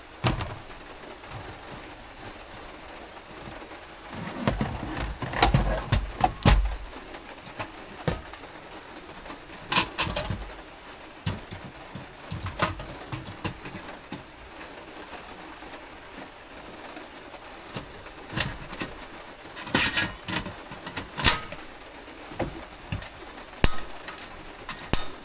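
Kitchen things being handled in a small space: scattered knocks, clicks and clatters of cookware and packets being set out, busiest about four to seven seconds in and again around twenty seconds in.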